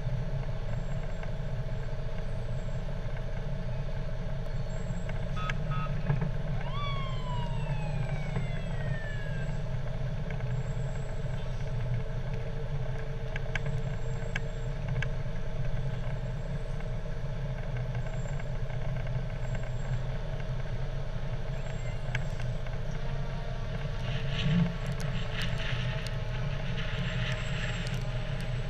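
Fire truck engine running steadily, with a brief tone sliding down in pitch about seven seconds in and a short hiss near the end.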